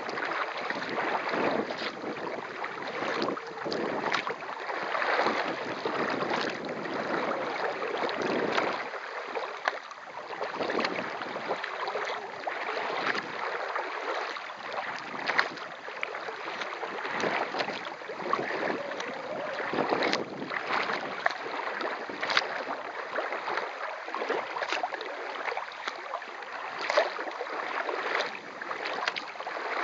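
Water splashing and slapping around a kayak as it is paddled across open lake water, with frequent irregular sharp splashes over a steady wash of water noise.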